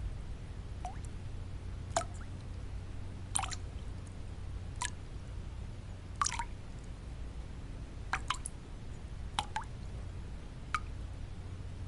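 Water drops falling one by one at irregular intervals, about ten plinks, some in quick pairs. They sound over a steady low white-noise bed.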